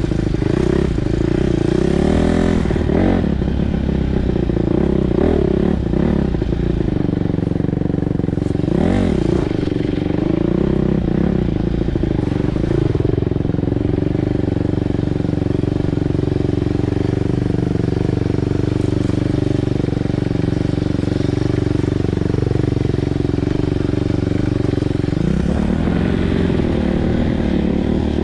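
Single-cylinder four-stroke dirt bike engine being ridden. The revs rise and fall several times in the first ten seconds or so, hold steady for about ten seconds, then change again near the end.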